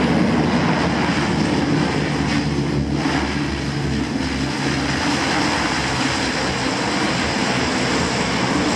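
Lockheed C-130 Hercules turboprop engines and propellers running steadily and loudly, a dense noise with several low engine tones through it.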